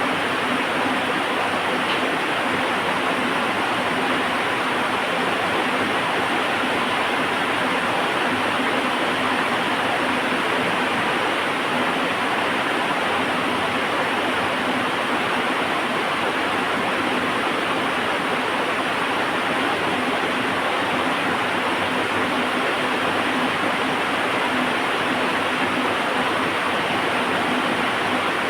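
Heavy rain falling as a steady, even hiss with no thunder or separate crackles.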